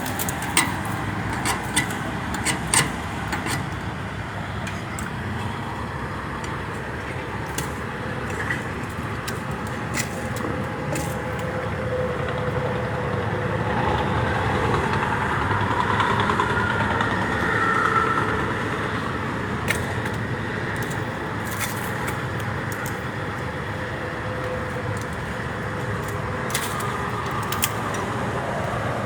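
Steady highway traffic noise, swelling as a louder vehicle passes about halfway through, with scattered sharp clicks and scrapes close by.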